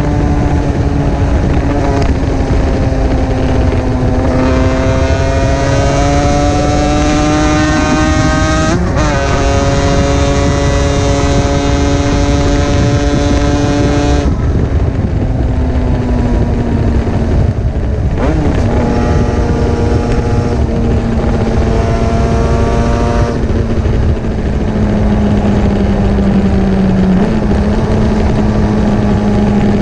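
Two-stroke sports motorcycle engine running at a steady cruising speed under loud wind rush. Its pitch holds for several seconds at a time and shifts a handful of times, with a brief quick rise twice.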